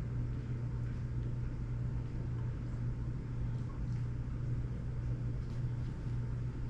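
Steady low electrical hum with a faint background hiss, and a few faint light ticks of small parts being handled midway.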